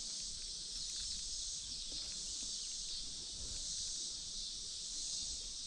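Steady, high-pitched insect chorus, with a few faint small clicks.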